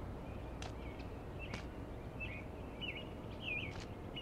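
Outdoor ambience: steady low background noise with a small bird chirping about five times, short chirps that dip and rise in pitch, plus a few faint clicks.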